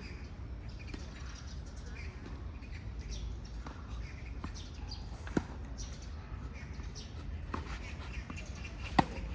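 Tennis ball struck by rackets: two sharp hits about three and a half seconds apart, one about halfway through and a louder one near the end, with fainter hits and bounces between. A steady low outdoor rumble and faint bird chirps run underneath.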